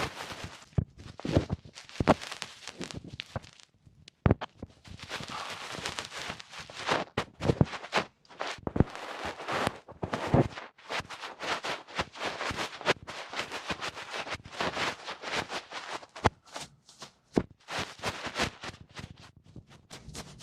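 Close-up ear-cleaning ASMR sounds: irregular scratching and rubbing with many sharp clicks, right on the microphone.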